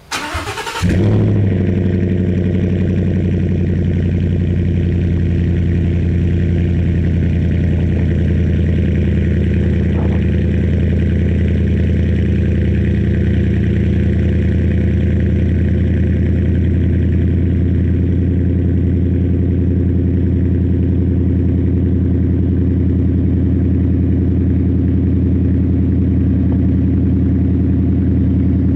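Cold start of a 2016 Ford F-150's 5.0 V8 through a 4-inch MBRP cat-back exhaust, heard from inside the cab: the engine cranks and catches within about a second, flares briefly, then settles into a steady idle.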